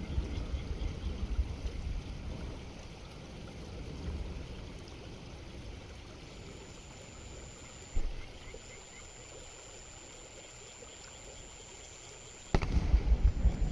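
Fireworks display with low rumbling noise that fades over the first few seconds. A single sharp thump comes about eight seconds in, followed by a quieter stretch with a faint steady high whine. A sudden loud bang near the end brings the low rumbling back.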